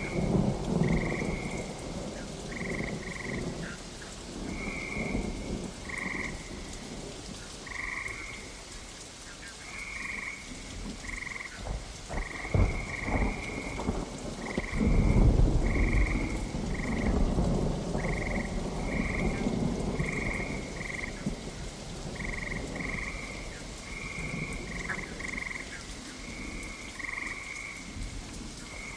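Rainstorm ambience: steady rain with low rolls of thunder, the loudest swelling about halfway through, and frogs calling throughout in short, repeated high notes.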